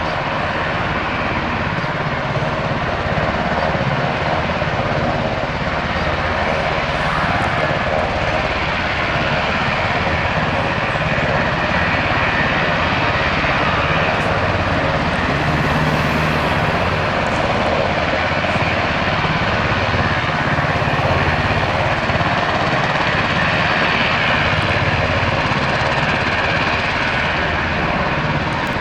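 Military helicopter running with a loud, steady engine and rotor noise that holds even throughout.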